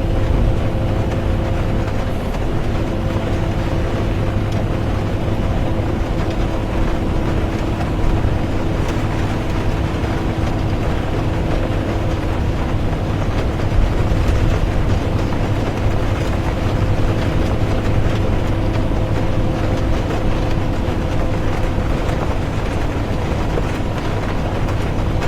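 Inside a bus driving steadily: constant engine rumble and road noise with a steady drivetrain hum, and rain on the bus.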